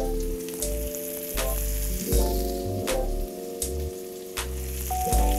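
Floured trout fillets frying in oil and butter in a skillet, with a steady sizzle and a few sharp pops. Background music with held chords and a bass line plays underneath.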